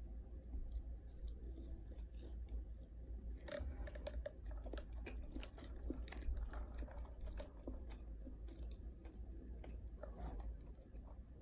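Close-miked chewing of crunchy food, with many small crunches and bites, busiest a few seconds in.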